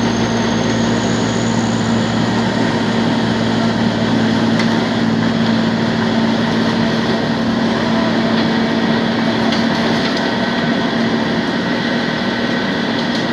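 Engine of road-repair machinery running steadily, a constant even hum without changes in speed.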